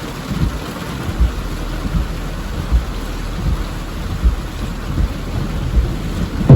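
Steady rain falling through a thunderstorm, with low irregular rumbles of thunder.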